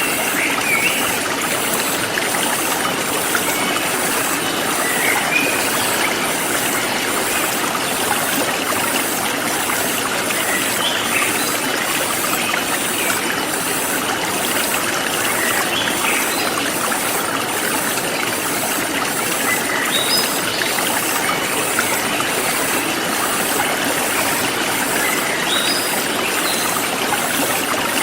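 Forest stream running steadily, with birds chirping here and there. A high insect chorus pulses about once a second.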